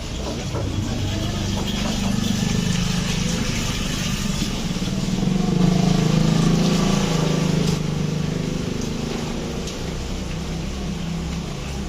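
A motor vehicle's engine running as it passes, with a steady low hum that grows louder to about halfway and then fades away.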